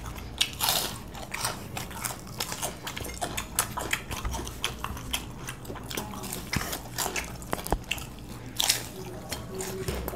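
Two people biting into and chewing fried chicken chops, with irregular wet mouth clicks and crunches from the fried coating.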